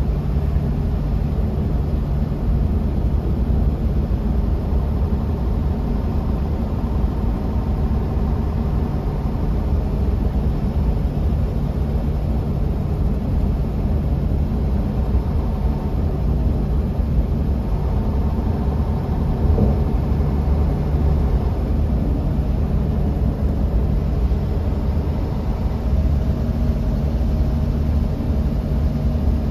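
Bus interior on the move: a steady low engine rumble with road and tyre noise and a faint whine above it.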